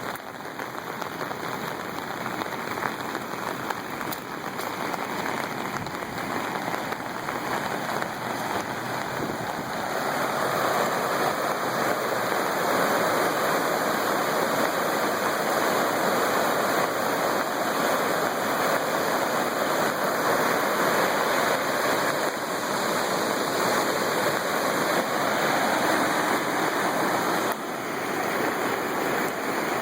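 Flooded river water rushing steadily, growing louder about ten seconds in.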